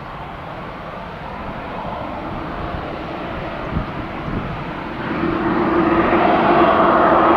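Airbus A319 twin jet engines spooling up for takeoff, growing steadily louder. About five seconds in, a steady engine tone and a rising whine come in as the engines reach takeoff power.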